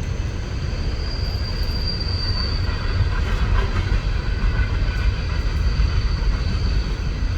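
CSX coal train passing: a steady rumble of the train's wheels rolling on the rails, with a thin, high wheel squeal over it between about one and three seconds in.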